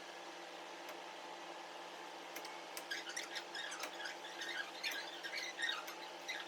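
A steady hum runs throughout, and about three seconds in a flurry of short, high squeaks starts, dying away about a second before the end.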